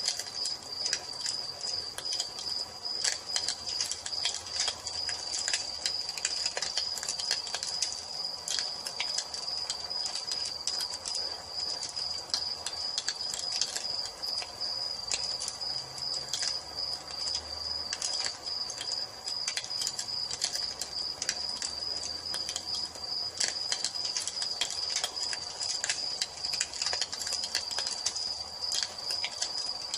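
Wood fire crackling with irregular small pops and snaps, over a steady high-pitched trill of crickets.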